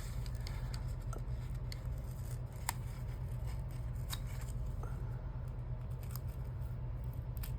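Scattered light clicks and scuffs of hand-working paper craft materials on a desk, over a steady low hum.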